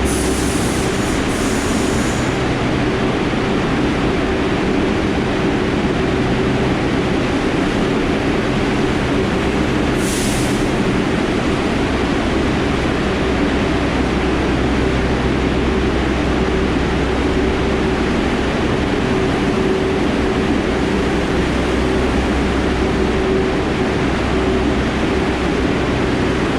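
New York City subway shuttle train: a steady, loud rumble with a constant electrical hum underneath and brief hisses near the start and about ten seconds in.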